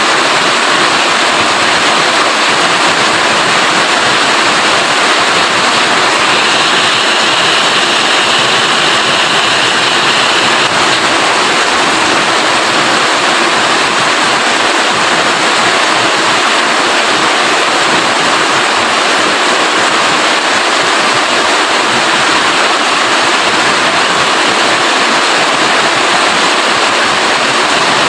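Steady heavy rainfall, an even hiss of falling rain with no let-up.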